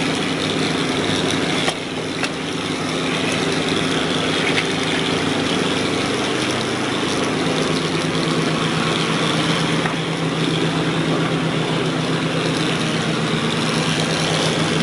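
Engine of a heavy construction machine running steadily, its low note growing stronger about halfway through.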